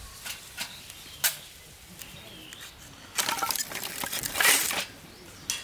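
A few sharp clicks, then about two seconds of loud crackling and rustling from objects being handled.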